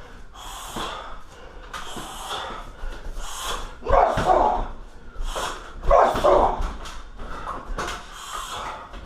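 Strikes landing on a heavy bag, each paired with a short, sharp shouted exhalation, in an irregular series about one a second; the loudest come about four and six seconds in.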